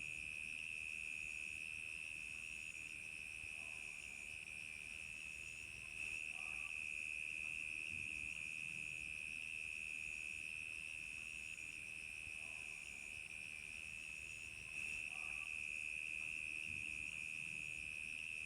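Crickets chirping on a summer night: a steady, unbroken high trill, with a second, higher insect call pulsing about once a second above it.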